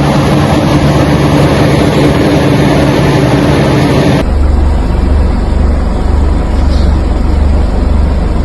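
Motor vehicle engine running steadily with a low hum. About four seconds in there is a sudden cut to a deeper, steady low rumble.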